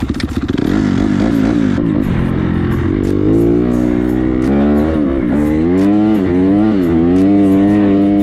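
Honda CRF motorcycle engine catching and running, revved up and down in repeated blips, its pitch rising about three seconds in, to check the work just done on it.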